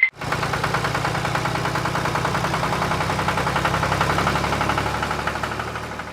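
Small tractor engine idling with an even pulse, fading out near the end.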